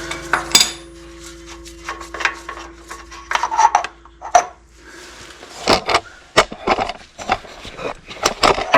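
Irregular clicks, knocks and scraping of a socket and hand tools working against metal parts as the transmission's oil filter cap is worked loose.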